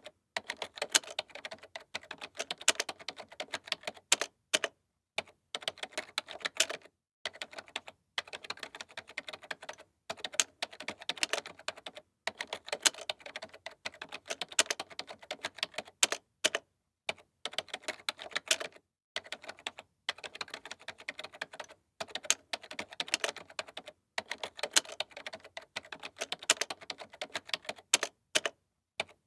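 Typing on a computer keyboard: fast runs of key clicks and clacks, broken every few seconds by brief pauses.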